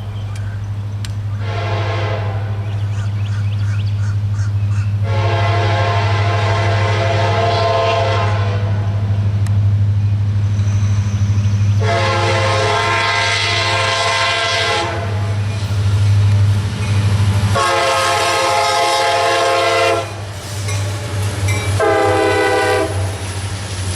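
CSX SD70MAC locomotive's multi-chime air horn, a Nathan K5LA, sounding five blasts: a short one about a second in, three long ones of about three seconds each, and a short one near the end. Under the horn, the locomotives' diesel engines drone steadily.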